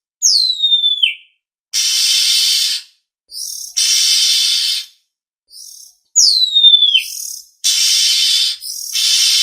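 Oriental magpie-robin (kacer) calls played as a lure: a long whistle that falls steeply in pitch, heard twice, alternating with harsh rasping calls about a second long each.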